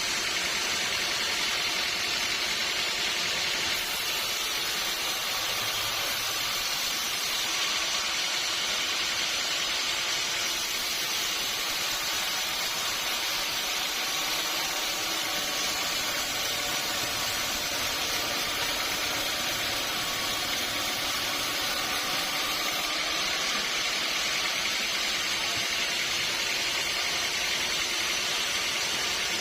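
Sawmill machinery running steadily, a constant noise that does not pause or change, typical of a saw working through a teak log.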